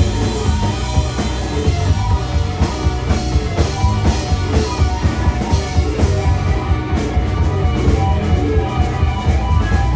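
Live rock band playing loudly: electric guitar, bass and drum kit with a steady beat, recorded from the audience.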